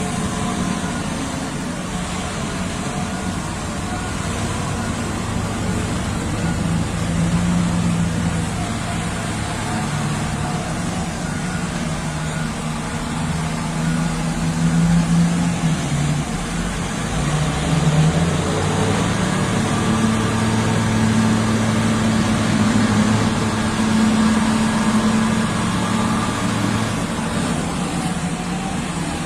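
Heavy diesel engines of mining dump trucks running continuously. The engine note changes about two-thirds of the way through and then holds a higher steady pitch.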